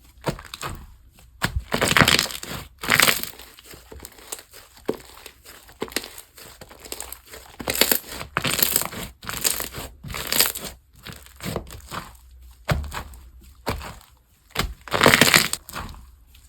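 Slime being squeezed, pressed and poked by hand, making irregular crackling clicks and pops with several louder squelching bursts.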